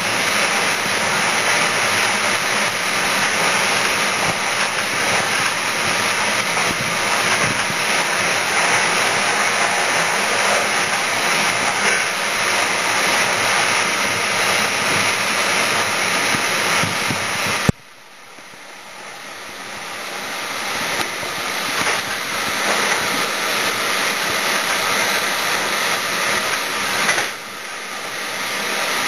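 Steady rushing noise inside the cab of a fast-running train: air and rolling noise. About two thirds of the way through a sharp click cuts it to much quieter, and it builds back up over several seconds; a smaller dip and recovery follows near the end.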